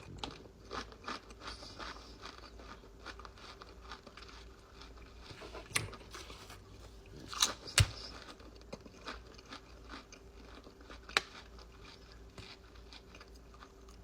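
A person biting into and chewing Lay's spicy crayfish flavored potato chips: a steady run of crisp crunches, with a few louder bites, one about six seconds in, two close together about seven and a half seconds in, and one about eleven seconds in.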